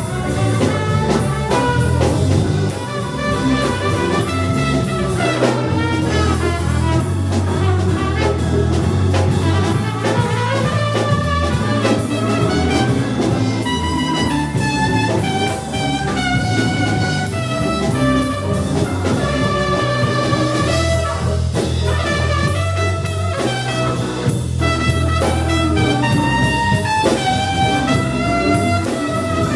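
Live jazz band playing: a horn carries a melody of held notes over a walking bass and a drum kit.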